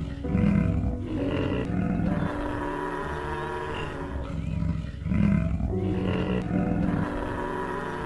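Cape buffalo bellowing and grunting: a run of deep, loud calls, repeated about halfway through.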